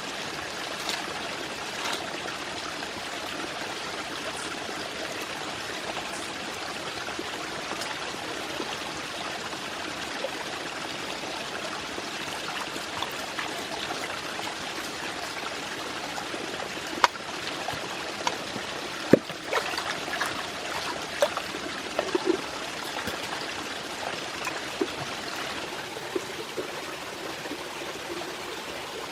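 Steady rush of a flowing stream, with a scattering of sharp clicks and knocks in the second half.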